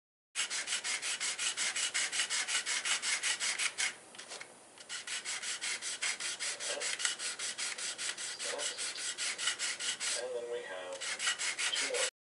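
Rapid back-and-forth rasping strokes of an abrasive hand tool worked on a part, about five strokes a second, with a short pause about four seconds in.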